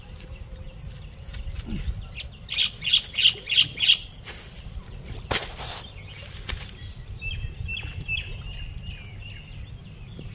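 Outdoor birdsong over a steady high insect drone. A bird gives a loud run of five or six calls, about three a second, roughly halfway into the first half. A brief rustle or knock comes near the middle, and softer chirping follows later.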